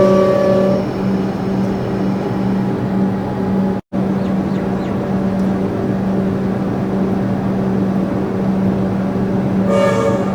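Electric suburban train: the tail of a horn blast fades in the first second, then a steady low hum and running noise, with a short horn toot near the end.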